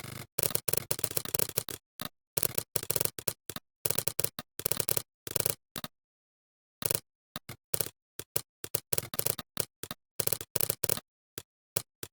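Computer keyboard typing: bursts of rapid keystrokes with short pauses between, the gaps cut to dead silence.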